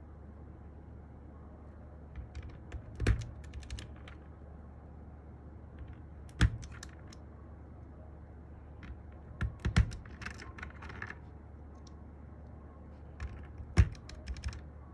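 Keystrokes on a Sky87 mechanical keyboard fitted with MMD Panda switches and cherry-profile keycaps. The sound is sparse clusters of key clacks rather than steady typing, with a few single strokes standing out louder.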